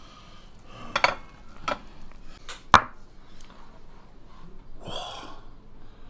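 A few sharp clinks and knocks of kitchenware on a glass bowl and tabletop, the loudest about three seconds in, followed by a short breathy gasp.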